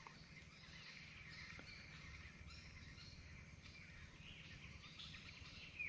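Near silence: outdoor ambience with faint bird calls in the background.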